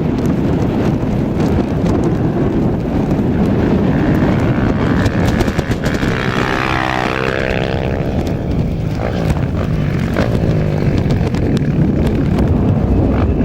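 A rally motorcycle or quad engine passes at speed about six seconds in, its pitch falling as it goes by. A steady low rumble runs underneath.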